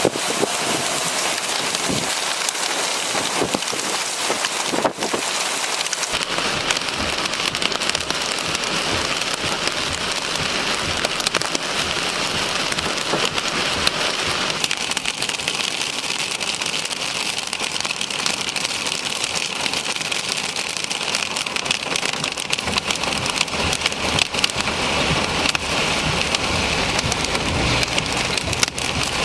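Heavy rain falling steadily, with a dense spatter of sharp drop impacts.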